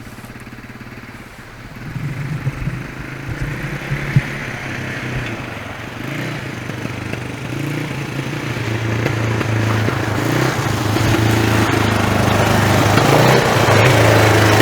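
Vehicle engine running steadily under way with a low, even drone that grows louder over the second half.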